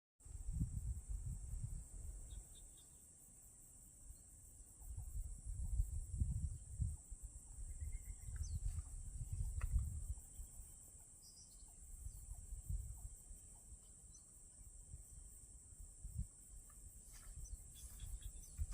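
A steady high-pitched insect chorus over rural paddy fields, with uneven gusts of low rumble and a few short bird chirps.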